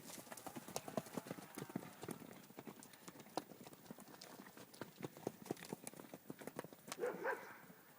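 Horses' hooves clopping irregularly on hard ground as spooked horses move about. A short animal call comes about seven seconds in.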